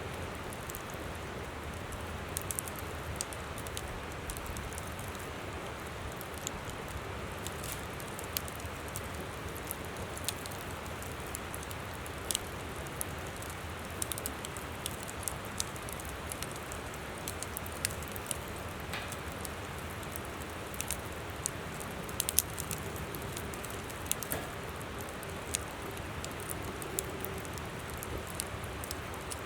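Wood campfire crackling, with irregular sharp pops and snaps, a few louder than the rest, over the steady rush of a flowing river.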